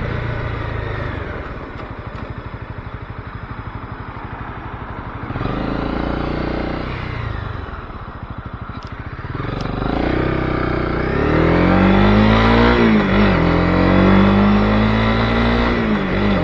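Honda CB250R's single-cylinder engine running at low revs, then accelerating from about ten seconds in, its pitch rising, dipping briefly at a gear change and climbing again.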